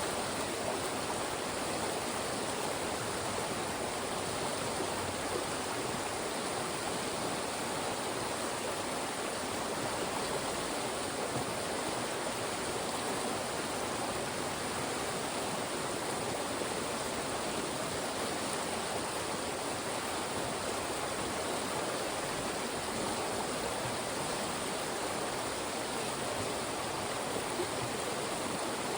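Fast-flowing mountain stream rushing through narrow rock channels, a steady, even rush of water.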